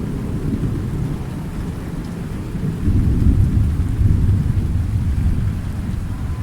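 Thunderstorm: a low, steady rumble of thunder with rain, swelling louder about three seconds in and easing off toward the end.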